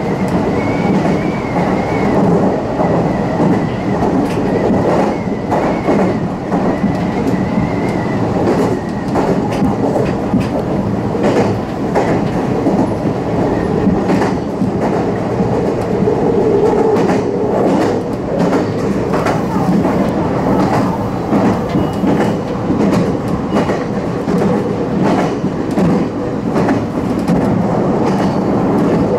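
Meitetsu electric commuter train running at speed, heard from inside the train: steady running noise with wheels clicking over rail joints. A faint high whine sounds through roughly the first eight seconds.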